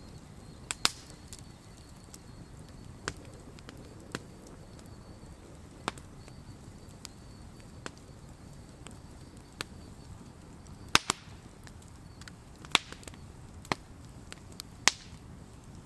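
Wood campfire crackling: irregular sharp pops and snaps of burning wood, a few louder snaps in the second half, over a low steady rumble of the fire.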